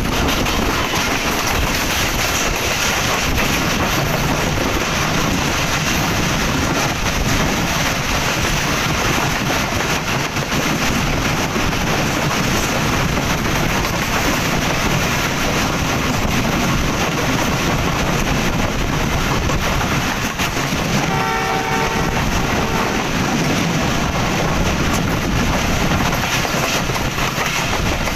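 Passenger train running at speed, heard from an open coach window: a steady din of wheels on the rails and wind. About 21 seconds in, a train horn sounds once for about a second and a half.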